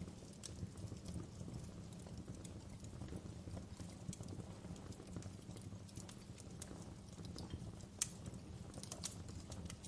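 Wood fire burning in a fireplace: a low steady rumble of flames with irregular sharp crackles and pops, one louder pop about eight seconds in.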